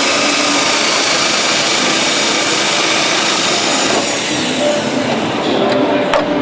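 Hand-held power tool running steadily on a car's steel bodywork, a dense, even noise with a faint whine; the highest part of the noise drops away about five seconds in.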